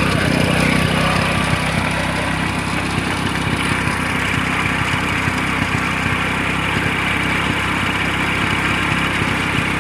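Motorcycle engine running steadily at a low, even speed while driving a water pump.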